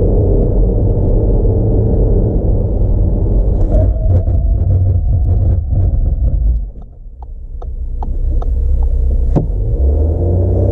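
Audi Q5 50 TDI's 3.0-litre turbo-diesel V6 running with a low, steady rumble. About two-thirds of the way through it drops away briefly, while a run of light ticks, two or three a second, and then one sharp click are heard, and the rumble builds back.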